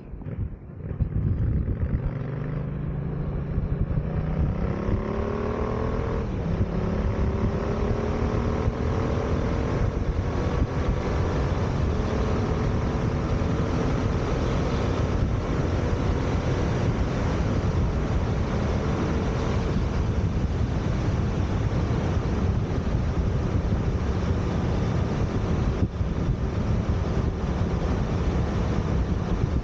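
Yamaha FZ-07 (MT-07) parallel-twin engine through an aftermarket full exhaust fitted with a dB-killer insert, pulling away and rising in pitch, with a gear change about six seconds in. It then runs steadily at cruising speed under a constant rush of wind.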